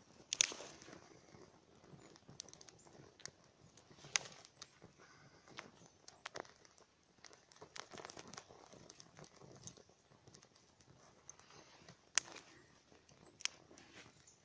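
Small wood campfire crackling, with irregular sharp pops and snaps among a light steady crackle.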